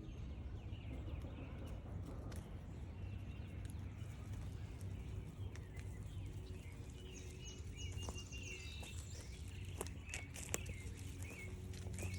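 Footsteps on a forest trail, a few sharp steps in the later part, with birds calling and trilling in the background over a steady low rumble.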